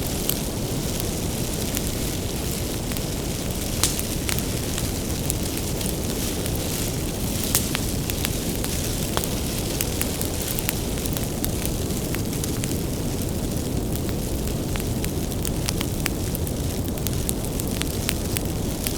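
Bonfire of firewood burning, a steady low rumble of flames with frequent sharp crackles and pops from the wood.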